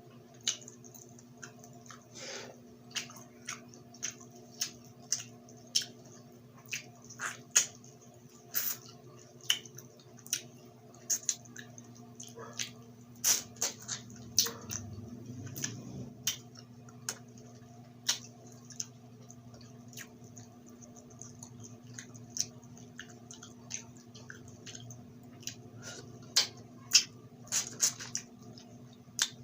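Close-miked wet chewing and crunching of grilled chicken head (Filipino ihaw-ihaw street food), with frequent sharp clicks and mouth smacks. A steady low hum runs underneath.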